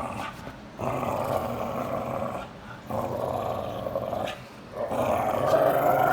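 Micro American bully dog 'talking': three long, rough, growl-like grumbles, each lasting over a second, the last one the loudest.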